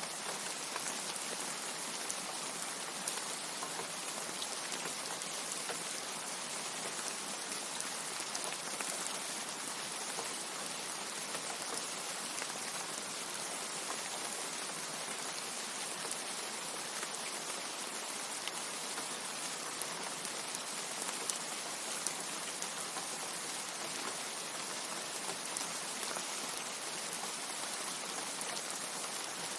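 Steady rain: an even, unbroken hiss of falling rain with individual drops ticking sharply here and there.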